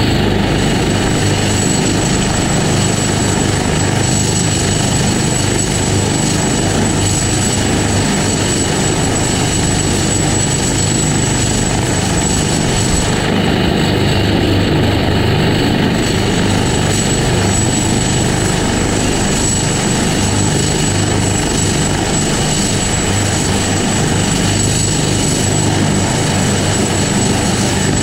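Helicopter running, a loud, steady rotor and engine noise with a thin high whine over it.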